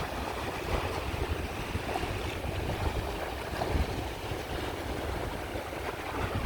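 Waves washing on a Caspian Sea shore, a steady, rumbling wash of surf.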